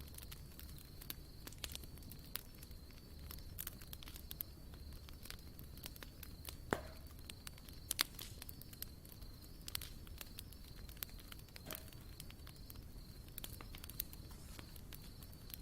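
Wood campfire crackling, with irregular sharp snaps and two louder pops a little past the middle. A faint steady high-pitched buzz runs underneath.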